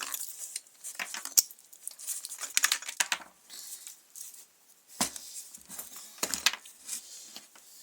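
Clicks, scrapes and rattles of hand work on a McCulloch string trimmer's plastic fuel tank and fuel line as the old fuel filter is fished out of the tank. The two loudest knocks come about five and six and a half seconds in.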